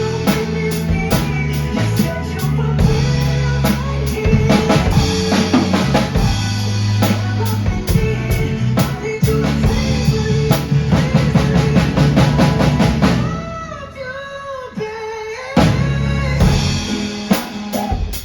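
Drum kit played along to a backing track, with a steady beat of bass drum, snare and rimshots. About 13 seconds in the drumming drops away while the track's melody carries on, then a few closing hits come back before the music fades at the end.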